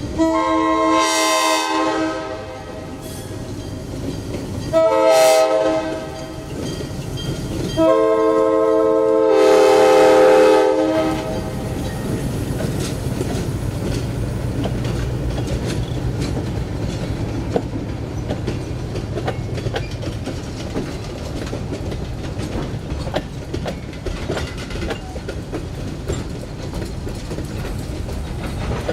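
A diesel locomotive's air horn sounds three chorded blasts: long, short, then long. The train then rolls past, its wheels clicking over rail joints under a steady low engine drone.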